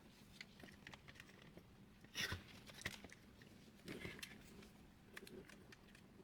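Scattered light clicks and taps of small plastic and metal printer parts being handled during disassembly, with a louder knock about two seconds in, over a faint steady hum.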